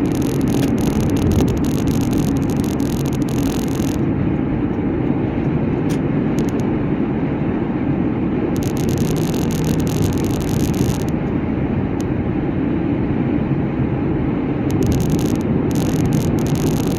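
A car driving at road speed: a steady low rumble of tyres and engine.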